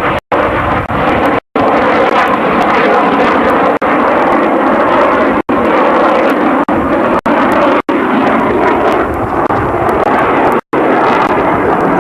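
Loud, steady jet aircraft noise, broken by several momentary dropouts where the sound cuts out completely for an instant.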